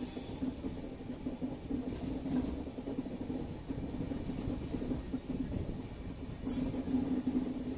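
Indian express train running at speed: steady rumble and clatter of the coach wheels on the track, heard from the open coach doorway.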